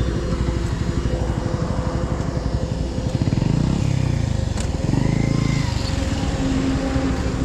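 Yamaha R15's single-cylinder engine running under way on the road, with wind noise over it. The engine note sweeps and shifts about halfway through.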